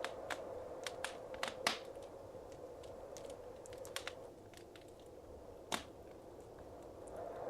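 Wood fire crackling in a fireplace: irregular sharp pops and snaps over a soft steady hiss. The loudest pops come about a second and a half in and near six seconds.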